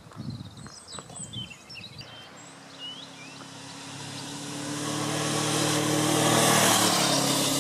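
Birds chirp briefly, then a vehicle engine approaches at a steady pitch, growing louder to its loudest about six seconds in, with its tone dropping slightly just after.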